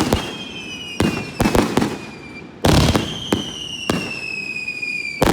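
Aerial fireworks going off close to the launch site: a series of sharp bangs, the loudest about two and a half seconds in. A high whistling tone slides slowly down in pitch after it.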